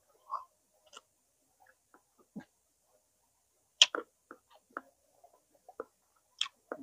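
Close-miked eating sounds of smoked chicken being chewed: scattered, irregular mouth smacks and clicks with short gaps between, the sharpest about four seconds in.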